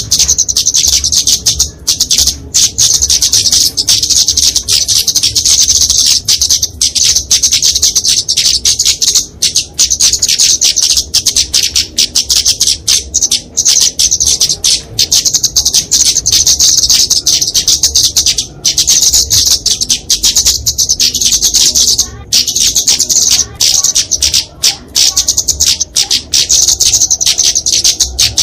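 Flowerpecker (kemade, genus Dicaeum) giving its agitated 'fighting' call: a fast, nearly unbroken stream of high, thin chips and twitters, with only brief pauses.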